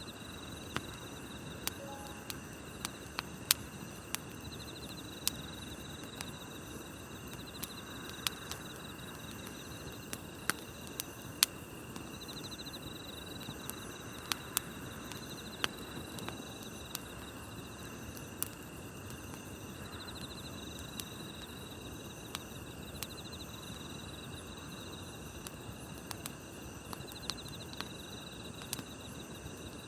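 Wood campfire crackling, with irregular sharp pops over a low rush of burning, against steady chirping of grass insects at night whose trills pulse every few seconds.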